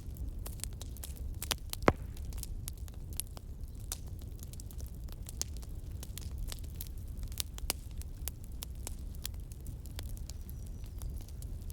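Campfire crackling, wood snapping in irregular pops with one louder pop about two seconds in, over a steady low rumble.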